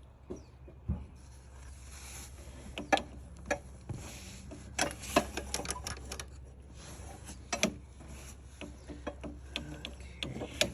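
Irregular metallic clicks and clinks of hand tools, a socket wrench with an extension, working in an engine bay, with a quick run of clicks about five seconds in.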